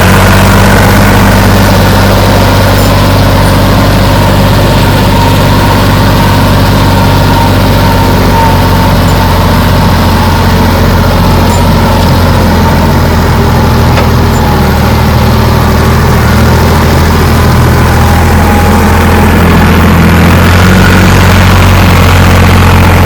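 Sonalika 47 RX tractor's diesel engine running loud and steady at a constant speed, with no change in pitch.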